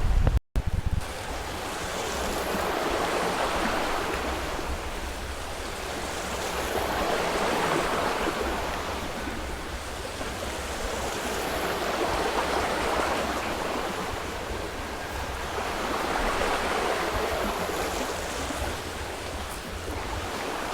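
Wind rushing through forest trees, swelling and easing in slow gusts every few seconds, after a brief dropout at a cut near the start.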